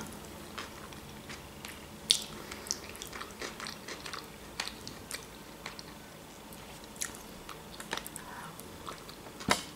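A person chewing soft food, canned eggplant-and-vegetable stew, close to the microphone, with wet mouth sounds and a scatter of short clicks.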